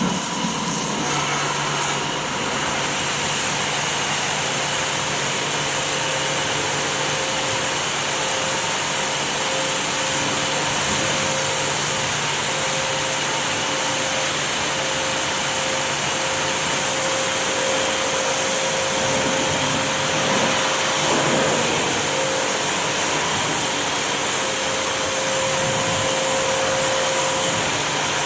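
Electric pressure washer (JPT IDR 220, 2400 W) running steadily: a constant motor and pump hum over a dense, even hiss.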